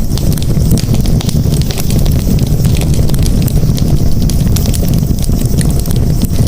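Campfire burning: many small sharp crackles and pops over a steady low rumble of the flames.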